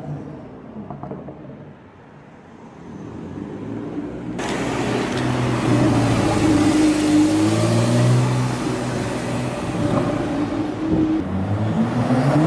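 A Porsche 911's flat-six engine accelerating past, its pitch climbing and then dropping. It comes in suddenly about four seconds in, after a quieter stretch of fading traffic, and another engine begins revving up near the end.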